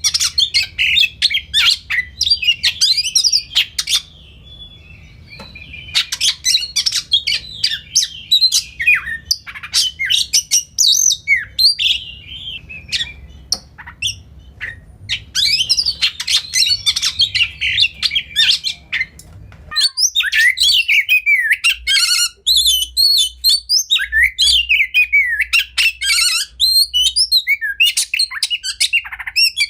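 Oriental magpie-robin (kacer) singing a fast, varied song of whistled glides, chirps and sharp clicking notes, in bursts with short pauses. A low background hum stops about two-thirds of the way through.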